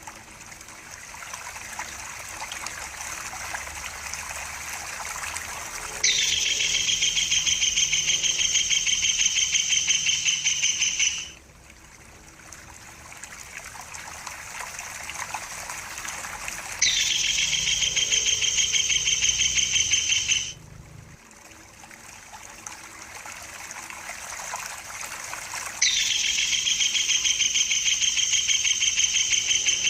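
Tengkek buto kingfisher calls: three long, rapid trills of about four to five seconds each, starting abruptly. Between them is trickling water that grows steadily louder.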